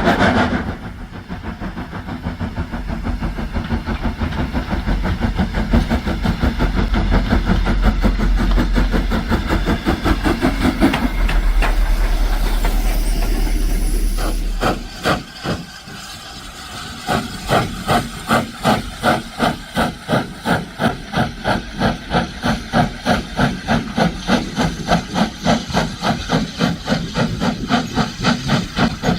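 Steam locomotive hissing steam, then, from about halfway through, its exhaust beating in a steady rhythm of roughly two to three chuffs a second.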